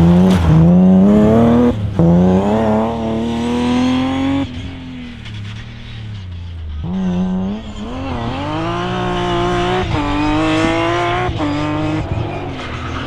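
Rally car engine accelerating hard through the gears, its note climbing and dropping back at each upshift. Midway it goes quieter for a couple of seconds, then comes back on the throttle and shifts up several more times.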